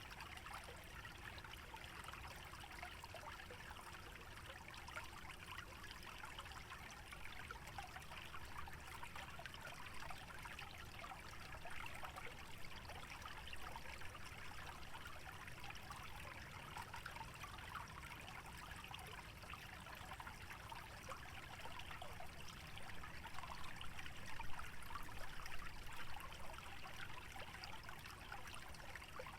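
Shallow stream trickling steadily through a wetland, a little louder for a few seconds about three-quarters of the way through.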